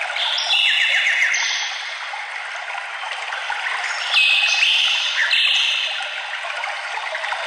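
Birds singing over a steady rush of running water, with clear whistled song phrases about half a second in and again about four seconds in.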